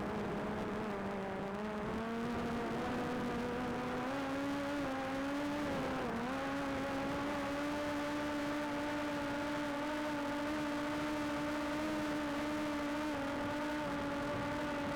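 Quadcopter drone's propellers humming steadily. The pitch creeps upward over the first few seconds, dips briefly about six seconds in, then holds level.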